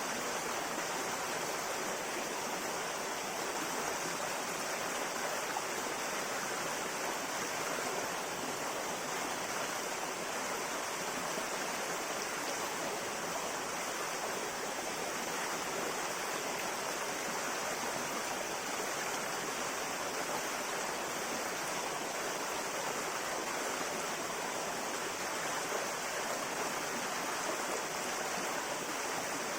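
Clear river water flowing and rushing over rocks in a steady, unbroken stream.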